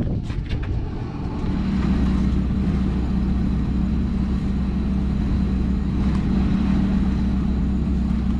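An engine running steadily with a low hum, growing louder about a second and a half in and then holding even.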